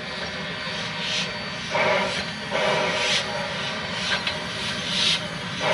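C17 class steam locomotive moving slowly, its exhaust giving slow chuffs roughly one a second over a steady hiss of steam.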